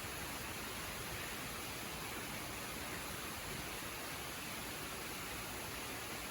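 Waterfall: falling water making a steady, even hiss with no change.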